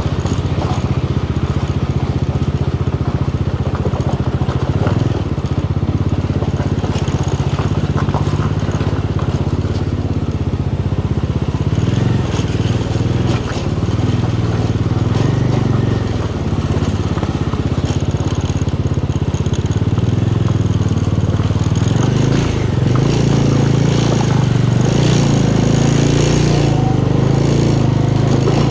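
Motorcycle engine running steadily while riding, with road and wind noise; the engine note shifts about three-quarters of the way through.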